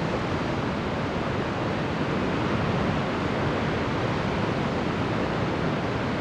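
Steady, even rush of water with no surges or breaks.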